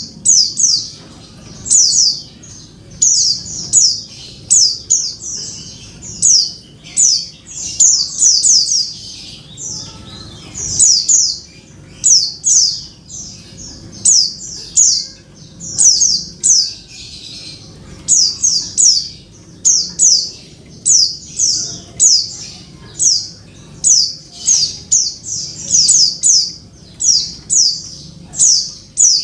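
Female white-eye (pleci) calling: short, high, downward-sliding notes in quick clusters of two to four, repeated about once a second. It is the call a hen uses to draw a male white-eye into song.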